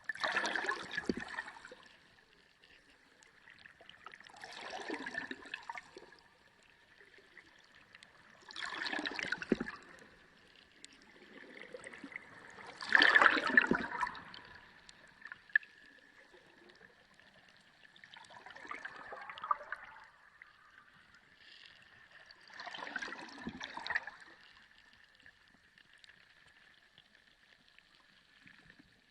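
Underwater sea sound: swells of water noise that rise and fall about every four to five seconds, six in all, over a faint steady high tone.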